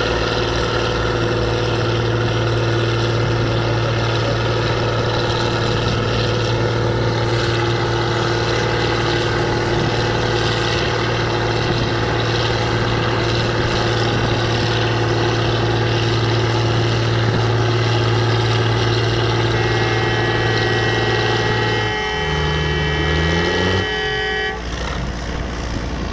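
International Harvester 956XL tractor's engine running loud and steady at constant revs. Near the end the revs change briefly, then drop to idle. A steady horn-like tone sounds over it for a few seconds just before the drop.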